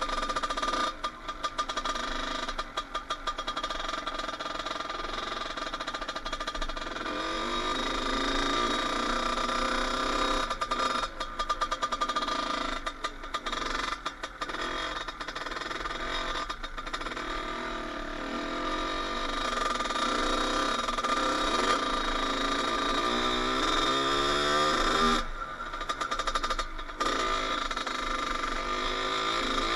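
Kawasaki KX80 dirt bike's 80cc two-stroke single-cylinder engine running while being ridden, revving up and down repeatedly. The sound cuts out briefly a few times.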